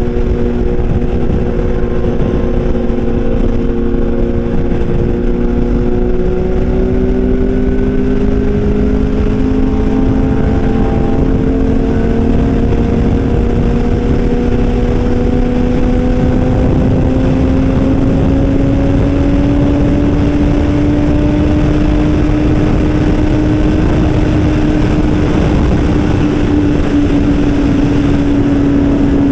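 Superbike engine running hard under a loud, even rushing noise. Its note holds steady, then climbs slowly for about fifteen seconds as the bike gathers speed, and levels off.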